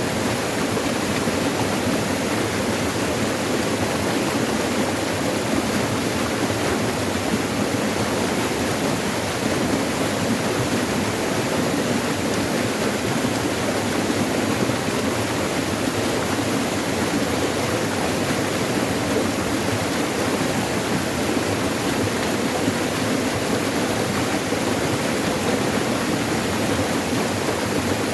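Steady rush of water flowing over rocks in a forest stream or small waterfall, an even unbroken roar with no other sounds standing out.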